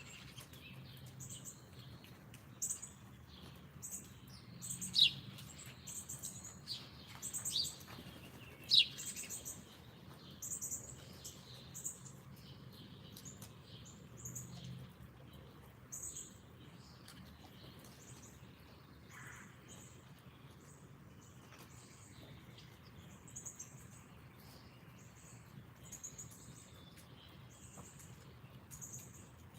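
Songbirds calling, a steady run of short, very high chirps, with a few louder, sharp down-slurred calls in the first ten seconds.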